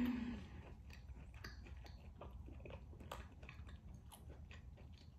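Close-miked chewing of a bite of rare beef tenderloin with butter: small, irregular wet mouth clicks and smacks. A brief hummed 'mm' comes right at the start.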